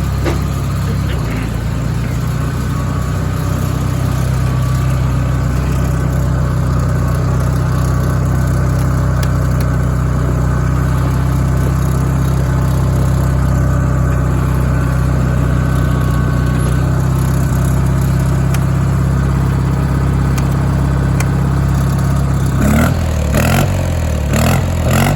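Onan engine of a Sears Suburban-based garden tractor running smoothly and steadily, with valves adjusted, new head gaskets and a rebuilt carburetor. A few knocks sound near the end.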